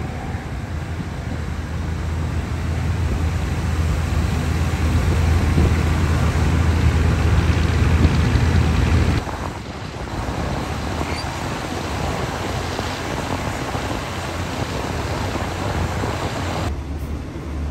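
Passenger train running along the track, heard from on board: a steady low rumble, louder in the first half and dropping suddenly about nine seconds in.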